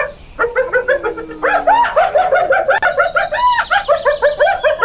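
Hyena giggling: a fast run of short, high, pitched whoops, several a second, after a brief pause at the start.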